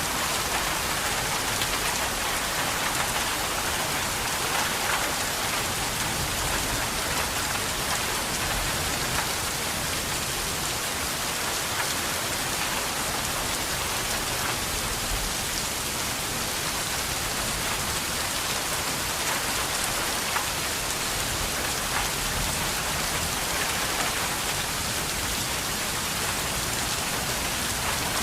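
Steady rain falling, an even hiss with scattered ticks of drops hitting a surface.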